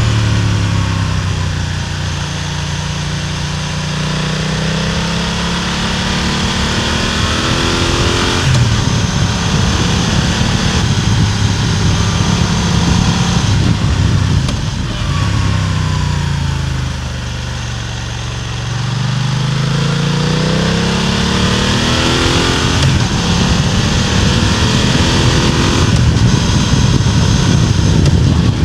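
BMW F900R's parallel-twin engine and exhaust heard close up from a microphone mounted above the exhaust while riding. The engine note falls as revs drop near the start, holds fairly steady, dips again about two-thirds of the way in, then climbs as the bike accelerates.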